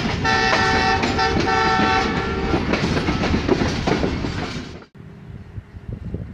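A multi-tone train horn sounds in broken blasts over the rumble and clatter of a passing train. Everything cuts off abruptly near the end, leaving faint open-air noise with light ticks.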